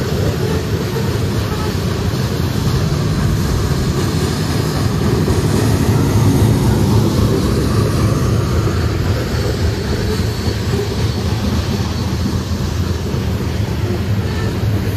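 A train rolling along the tracks: a steady, loud low rumble of wheels and cars, swelling slightly about halfway through.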